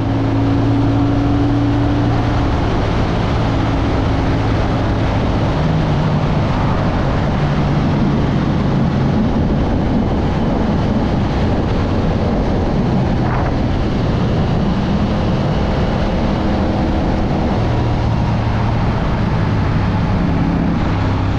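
A CFMoto CL-C 450's 449cc 270-degree parallel-twin engine running under way at road speed, its note stepping up and down, over a steady rush of wind.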